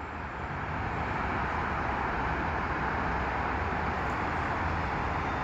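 Steady hum of distant city traffic heard from high up, an even wash of noise without distinct events that swells slightly about half a second in.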